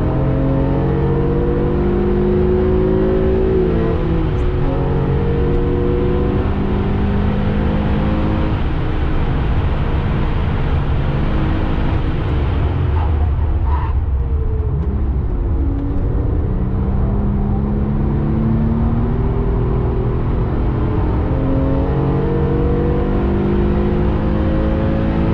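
Porsche 996 Carrera 2's 3.6-litre flat-six heard from inside the cabin under hard acceleration, its pitch climbing and dropping back again and again as it is run up through the gears. About halfway it falls away to a low note, then climbs through the gears again, over steady road and wind noise.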